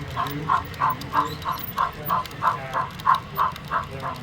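Sound-equipped HO scale model steam locomotive chuffing steadily at about three chuffs a second as it runs, with faint clicking underneath.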